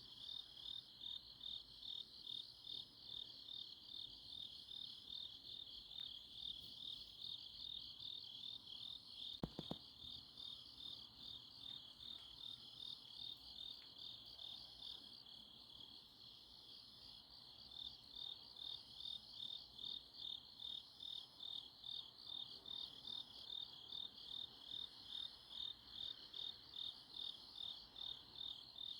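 Crickets chirping on an autumn night in a steady rhythm of about two chirps a second, with a fainter, higher insect call pulsing more slowly above it. A single brief low knock about nine and a half seconds in.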